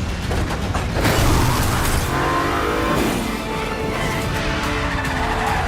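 A car engine revving up and down in hard chase driving, heard alongside a music score.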